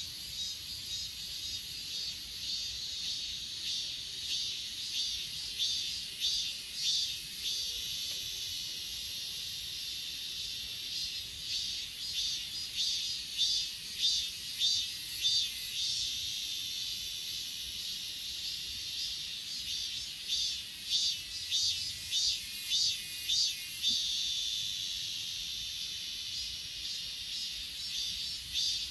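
A chorus of grass insects keeps up a steady high shrill, with runs of rapid pulsed chirps coming and going every few seconds.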